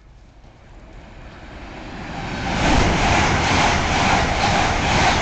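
A train passing through the station: its noise builds over about two and a half seconds into a loud, steady rush with a regular pulse about three times a second.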